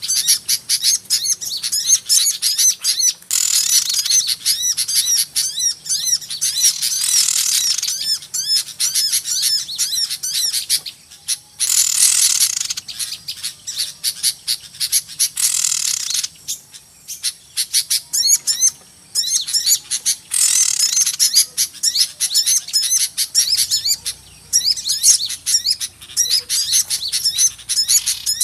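A noisy flock of small songbirds chirping rapidly, with many high, overlapping chirps that swell into denser stretches and thin out briefly before building again. It is a bird-luring call (suara pikat) of agitated small birds, played to draw wild small birds in.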